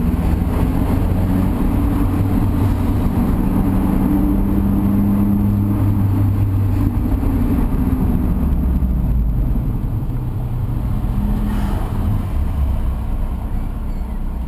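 Mazda MX-5's four-cylinder engine running at low revs while cruising slowly, with road and tyre noise, heard from inside the cabin. The engine note eases off a little in the last few seconds.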